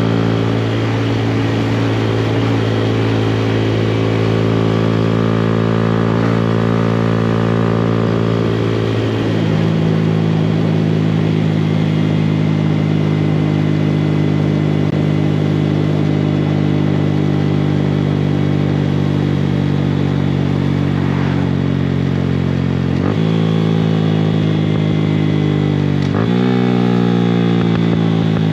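2018 Honda Grom's 125 cc single-cylinder engine through a Yoshimura exhaust, running at a steady pitch with a small step about nine seconds in. Near the end the revs rise quickly twice, then fall away.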